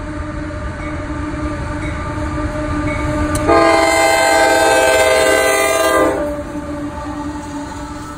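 Freight train rolling past a grade crossing with a steady low rumble. About three and a half seconds in, a locomotive air horn sounds one long blast of nearly three seconds, several notes at once.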